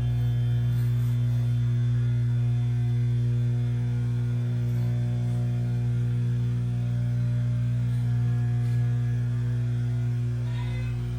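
Oregon 620-120 chainsaw chain grinder's electric motor running with a steady hum.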